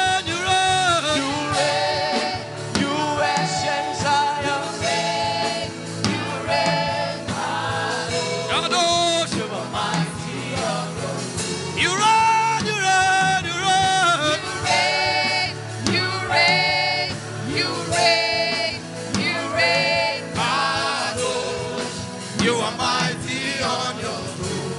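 Gospel worship music: voices singing long, sustained lines over instrumental backing.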